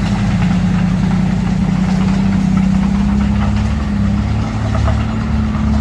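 Heavy diesel engine of earth-moving machinery running steadily, a constant low drone whose deeper rumble shifts slightly about four seconds in.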